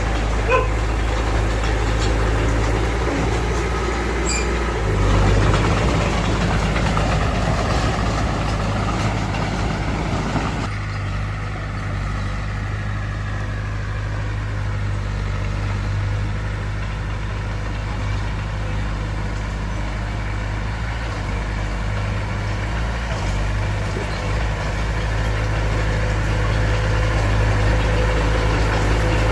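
Diesel engine of heavy earthmoving machinery running steadily. About 11 seconds in, the higher-pitched mechanical noise falls away and the low engine sound continues.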